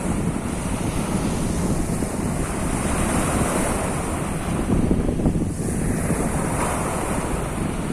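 Surf of the Sea of Azov washing steadily onto the shore, with wind buffeting the microphone and adding a low rumble.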